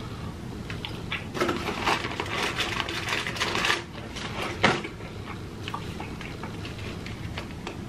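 Close-miked chewing of crispy fried food, with wet mouth clicks and crackling, busiest for a couple of seconds after the start, and one sharp click a little past the middle.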